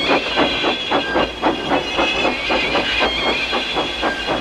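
Steam locomotive chuffing hard at about four puffs a second over a steady high hiss of steam, working to push a stuck engine.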